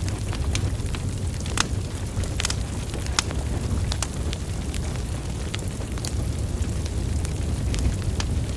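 Wood fire burning: a steady low rumble of flames with sharp crackles and pops from the logs at irregular intervals.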